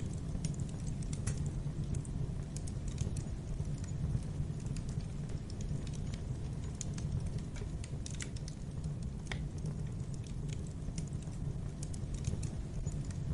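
Wood fire in a fireplace crackling: irregular sharp pops and ticks over a steady low rumble.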